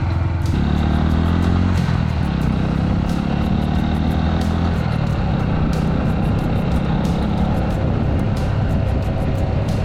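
Suzuki Grasstracker's single-cylinder engine pulling as the motorcycle accelerates: its pitch rises, drops at a gear change about two seconds in, then climbs again before settling into steady running.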